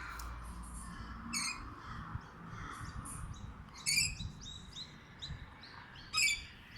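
Parrots calling: a run of short high chirps, with three louder harsh squawks about a second and a half in, at four seconds, and near the end.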